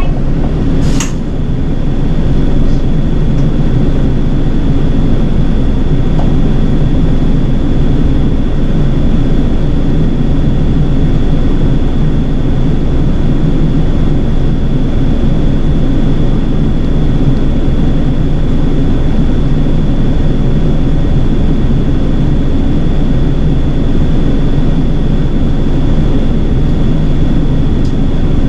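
City bus engine and running noise heard from inside the cabin: a steady low rumble with a faint, steady high whine above it. A short click sounds about a second in.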